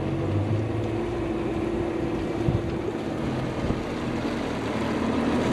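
Motorboat's outboard engine running steadily under way, with the hull's water noise and some wind on the microphone.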